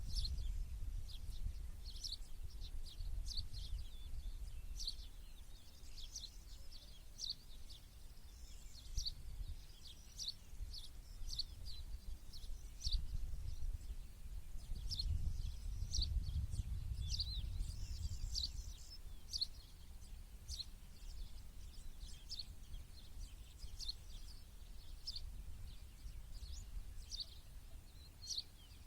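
Several small birds chirping and calling in quick, short high notes again and again, over a low rumble that swells about halfway through.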